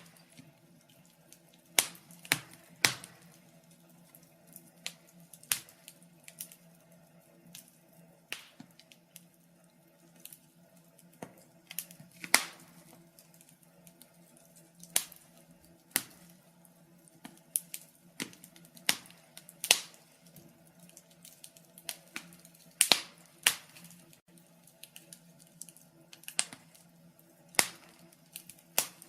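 Wood fire crackling: irregular sharp pops and snaps, sometimes in quick clusters, over a faint steady low hum.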